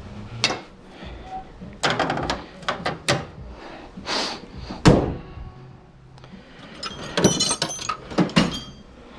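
Clicks and knocks of hands and tools working on a car, with one loud thunk about five seconds in and metallic jingling clicks from about seven seconds.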